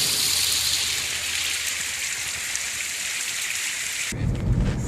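Steady rush of falling water from a creek and small waterfall. About four seconds in it cuts off abruptly to a low rumble.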